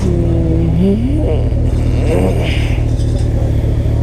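Kawasaki ZX-14R's inline-four engine running under way with a steady low drone, its pitch rising about a second in as the throttle is opened, with further short rises in pitch after that.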